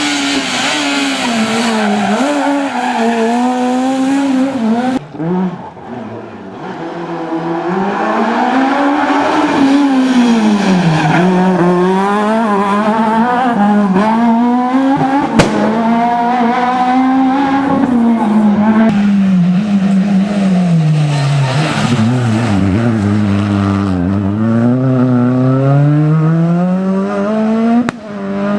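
S1600 rally cars' high-revving 1.6-litre four-cylinder engines driven flat out, the engine note climbing and falling repeatedly with gear changes and lifts for corners. There are abrupt cuts between passes, at about five seconds and near the end, and a single sharp crack about halfway through.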